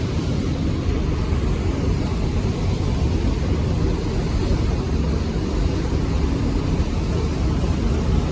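Wind buffeting the microphone in a steady, fluttering low rumble, with no distinct engine tone.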